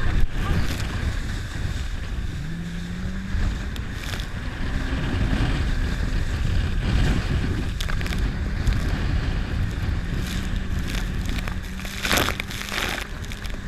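Jet ski engine running on the water, its pitch stepping up and down as the throttle changes, over rushing water and wind on the microphone. A sharp thump or slap comes near the end.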